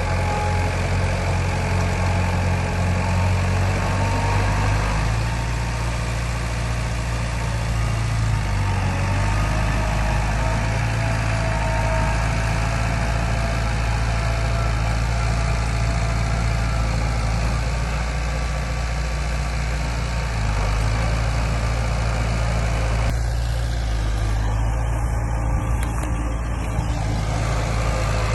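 Diesel engine of heavy earthmoving machinery running steadily at low, even revs, with slight shifts in pitch.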